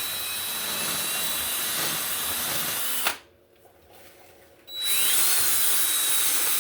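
Drill spinning an abrasive bit against steel, cleaning paint off the motorcycle frame. It runs steadily with a thin whine, stops about three seconds in, and starts again a second and a half later, louder, its whine rising as it spins up.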